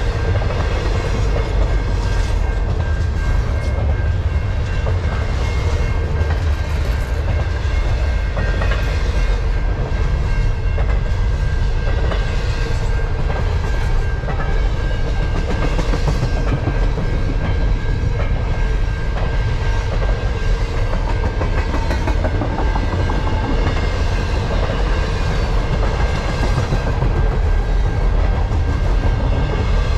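Double-stack intermodal freight train rolling past close by: a steady heavy rumble of steel wheels on rail, with a clickety-clack of the cars and a thin steady high tone.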